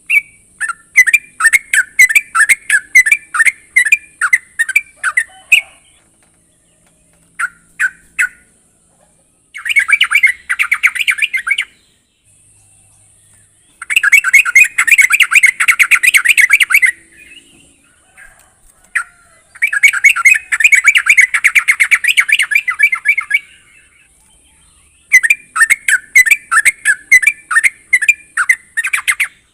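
Yellow-vented bulbul (trucuk) calling in loud bursts of fast, chattering repeated notes, each burst lasting two to four seconds, with short pauses between.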